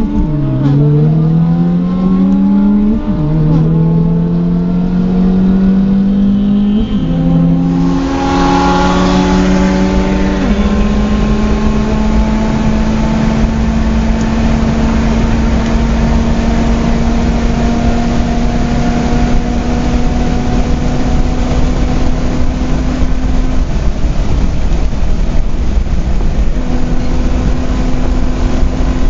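Tuned car engine, heard from inside the cabin, pulling at full throttle in a drag race. The pitch climbs and drops at upshifts near the start and about 3 and 7 seconds in. After a cut, a second hard pull shifts about 10 seconds in and then holds a steady, slowly rising drone at speed.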